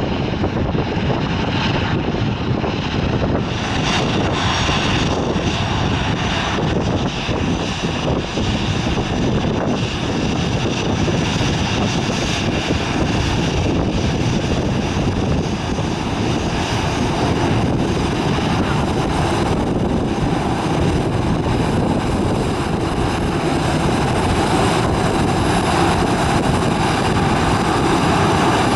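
Jet airliner engines running with a steady high whine, over heavy wind rumble buffeting the microphone.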